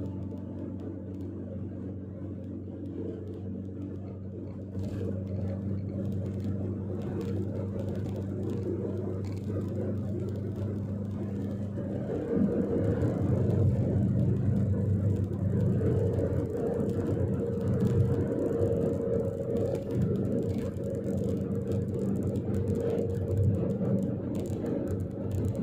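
A car driving, with a steady engine and road hum that gets louder and rougher about halfway through.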